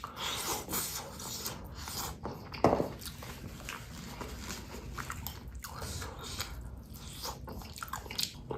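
A person biting and chewing food close to the microphone, with short crunches and wet mouth clicks throughout.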